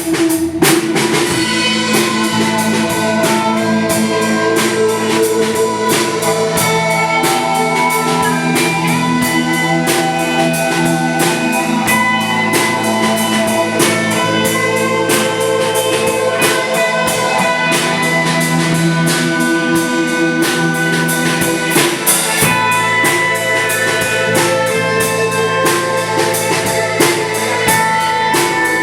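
Live rock band playing an instrumental passage: a drum kit keeping a steady beat under sustained electric guitar notes, with no singing.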